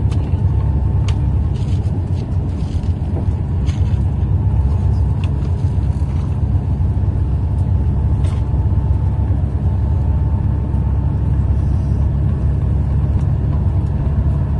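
Steady low rumble of a moving road vehicle, with a faint steady tone and a few light clicks over it.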